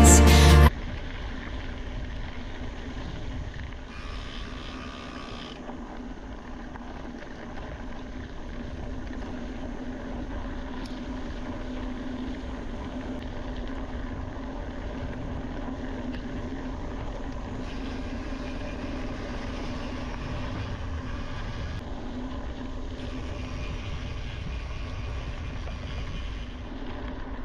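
Steady riding noise from a mountain bike on the move: wind on the microphone and tyre rumble, with a steady low hum throughout.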